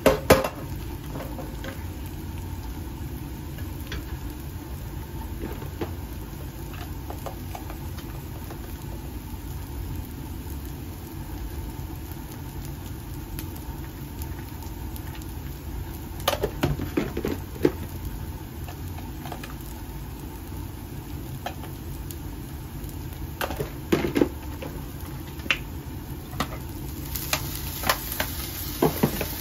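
Mashed-potato patty frying gently in a nonstick pan over a steady low hum, with a wooden spatula clattering against the pan at the start. Short knocks and clinks come twice past the middle, and a brighter sizzle rises near the end as liquid is poured into the hot pan.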